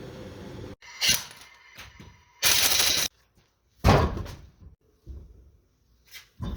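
A few sudden thuds and knocks, the heaviest just before the middle, with a short burst of hissing noise between them.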